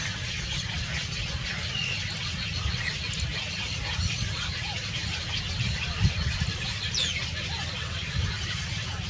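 Faint, short high bird chirps scattered over a steady low rumble, with a falling whistle about seven seconds in and a brief thump just before it.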